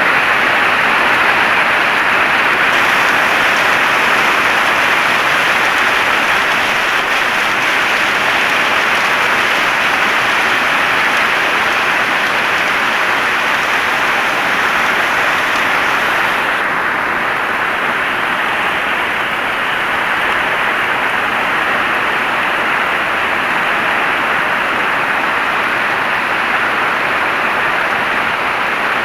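Heavy rain falling steadily, an even dense hiss with no separate drops standing out; the sharpest part of it drops a little about halfway through.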